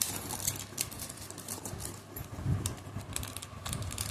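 Scattered small clicks and rustles of hands handling a plant seedling and its packing, over a steady low hum.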